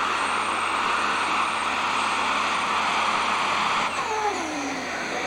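Super stock pulling tractor's engine running flat out under load during a pull. About four seconds in the power is cut, and a falling whine follows as the engine and turbos wind down.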